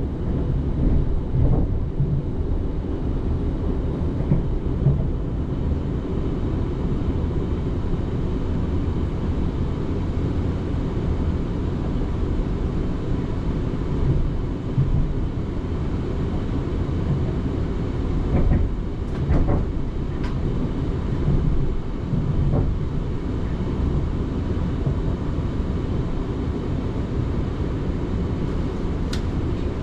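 South Western Railway electric passenger train running along the line, heard from on board: a steady low rumble of wheels on rail, with a few sharp clicks from about 18 to 23 seconds in and again near the end.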